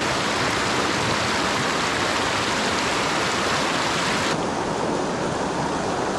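Small mountain creek running over rocks, a steady rush of water. About four seconds in the hiss suddenly loses its top end and sounds duller.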